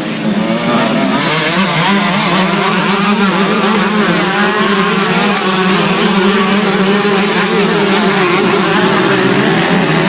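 Motocross motorcycle engines running loud and continuously, their pitch wavering up and down as the throttle is worked.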